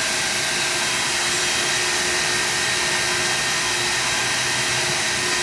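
Car wash equipment running steadily: a constant, even hiss with a few steady hums underneath, with no change.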